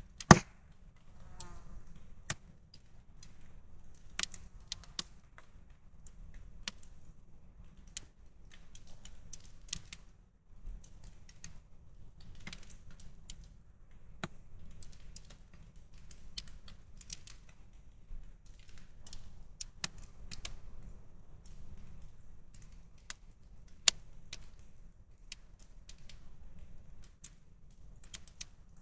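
Wood campfire crackling and popping in quick, irregular snaps, with one loud pop just after the start. A low rumble of wind runs underneath.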